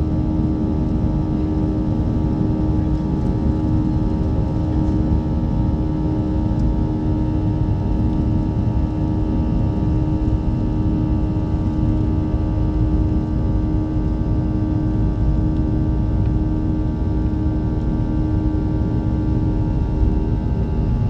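Boeing 737 jet engines at take-off power, heard from inside the passenger cabin: a steady, loud rumble with a constant hum of several fixed engine tones.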